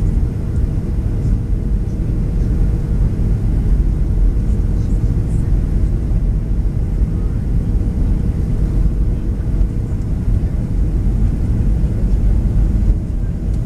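Steady low rumble of a Boeing 737-700's CFM56-7 jet engines and airflow heard inside the passenger cabin, with a faint steady hum above it.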